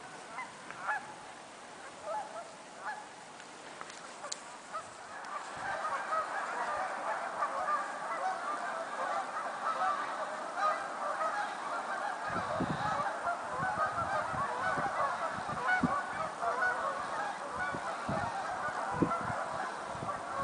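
A large flock of Canada geese honking, sparse at first and swelling after a few seconds into a dense, continuous din of many overlapping calls. Low thumps and rumbles join in from about twelve seconds in.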